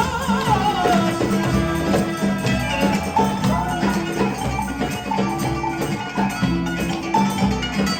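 Live instrumental folk music with a steady rhythmic beat and tambourine-like percussion, a melody line gliding up and down above it.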